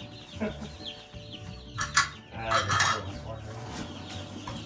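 Many Cornish Cross broiler chicks peeping inside their cardboard shipping boxes. A sharp knock about two seconds in, followed by a rustling, scraping stretch, as the boxes are handled.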